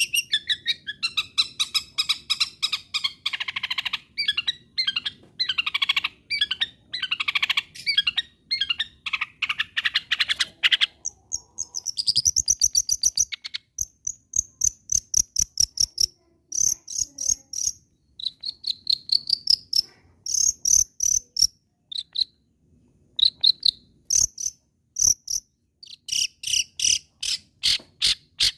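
Long-tailed shrike (cendet) singing a fast, dense chattering song of rapid high notes. From about halfway through, the song turns into short runs of quick repeated notes with brief pauses between them.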